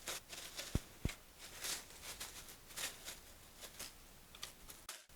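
Faint handling noises: scattered light clicks, taps and rustles as the foam model parts and their packaging are handled, with two sharper taps about a second in.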